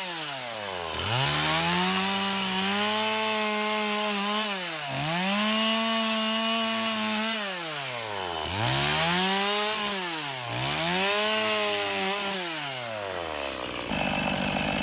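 Two-stroke chainsaw running at high revs, its pitch dropping sharply and climbing back four times as the throttle is let off and squeezed again. Near the end the engine note stops and a steady noise takes over.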